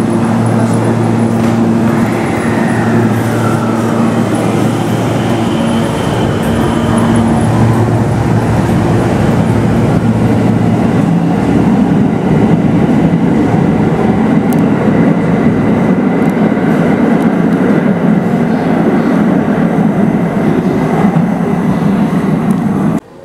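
JR West 521 series electric train pulling away from the platform and running past. Early on there is a steady motor hum and a short falling whine, then a louder rumble of wheels on rail as the cars go by. The sound cuts off suddenly near the end.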